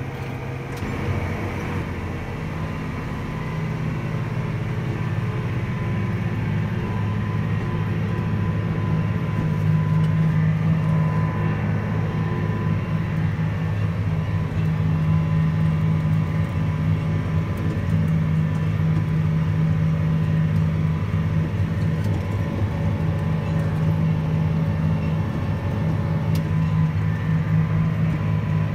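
John Deere 8235R tractor's six-cylinder diesel engine running steadily under load as it pulls a 16-row bedding implement through the field, heard from inside the cab. It makes a deep, even drone with a faint steady whine above it, building a little over the first couple of seconds.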